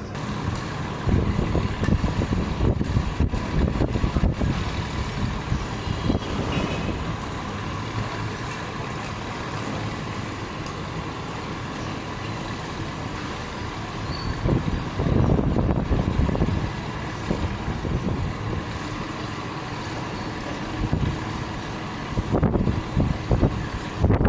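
Truck engine running with a low rumble that swells louder about a second in and again around fifteen seconds in.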